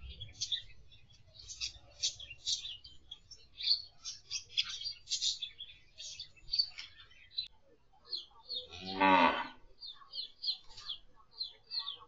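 Small aviary birds chirping in quick, short high notes over and over. About nine seconds in comes one loud, drawn-out, deeper animal call lasting about a second, the loudest sound here.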